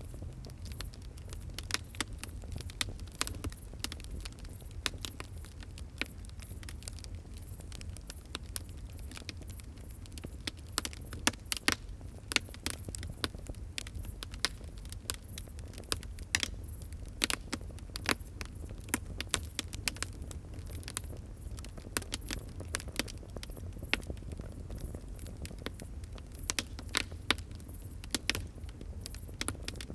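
Wood fire crackling, with frequent sharp irregular pops and snaps over a steady low rumble of flames.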